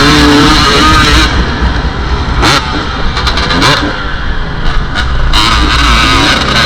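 Dirt bike engine revving up and down, with heavy wind rumble on the microphone.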